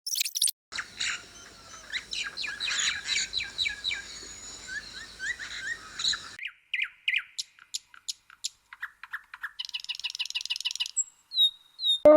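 Birds chirping and tweeting in a series of short clips. First comes a dense chorus of high chirps over a background hiss, then scattered single chirps, a quick trill and a few short whistles near the end.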